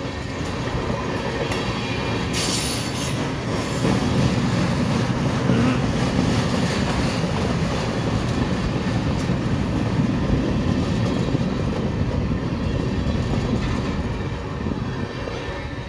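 Freight train of empty maintenance-of-way rail-rack flatcars rolling steadily past close by, steel wheels running on the rails. There is a brief high-pitched burst about two and a half seconds in, and the noise eases slightly near the end.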